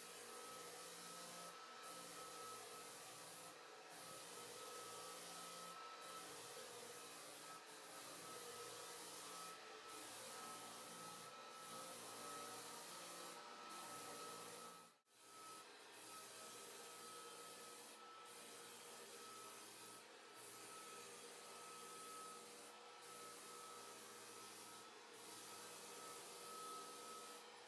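Faint, steady sound of a floor sanding machine abrading a hardwood floor, with a brief dropout about halfway through.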